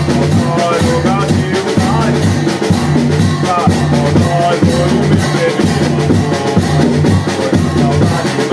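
Banda de pífano playing: fifes carry a bending, ornamented melody over a steady drum beat.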